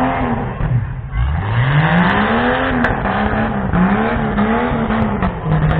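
Tough truck's engine revving hard and dropping again and again. There is one long climb in pitch about a second in, then quicker rises and falls as the throttle is worked over the course's humps.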